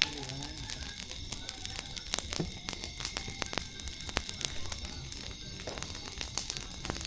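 Campfire crackling: irregular sharp pops and snaps throughout.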